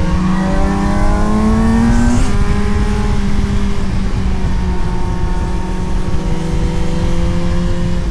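Suzuki GSX-S750 inline-four engine pulling under acceleration, its pitch rising for about two seconds before dropping sharply on an upshift. It then pulls steadily in the next gear, pitch climbing slowly, and eases off slightly near the end.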